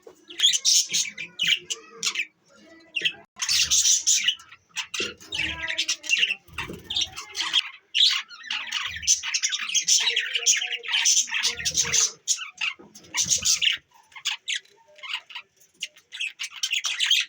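Budgerigars chattering and squawking in fast, dense bursts of high chirps, with short pauses and a few dull low thumps in between.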